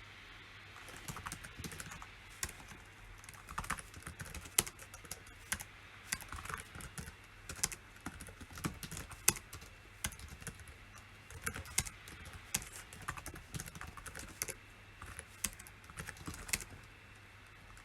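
Typing on a PC keyboard: irregular runs of key clicks with a few louder keystrokes, starting about a second in and stopping about a second before the end.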